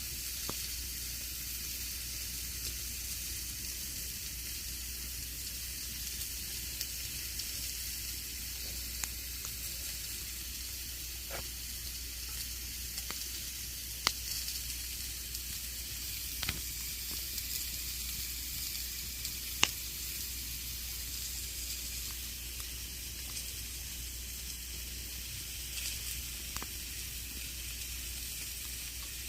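Wood campfire burning: a steady crackling hiss with scattered sharp pops, two of them louder, about halfway through and a few seconds later.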